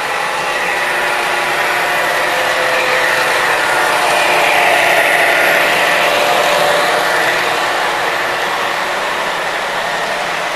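MTH Premier O-gauge Genset model diesel locomotive running on the track pulling flatcars, a steady hum of wheels, motor and engine noise that swells a little in the middle.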